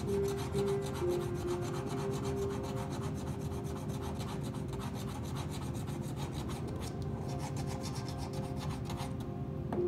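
A cockatoo gnawing and scraping a plastic ping pong ball with its beak: a fast, steady run of rasping scrapes that stops near the end.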